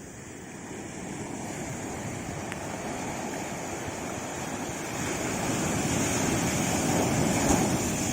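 Sea waves washing in: a steady rush of surf that swells louder over several seconds, peaking near the end.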